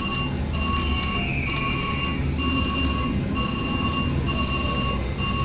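VGT slot machine's win bell ringing in repeated pulses, about one a second, as the credit meter counts up a win, over the low din of the casino floor.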